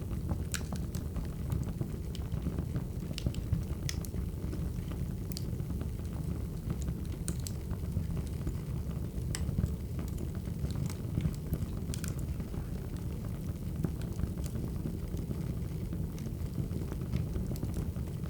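Wood fire crackling: a steady low rumble of flames with irregular sharp pops and snaps of burning firewood.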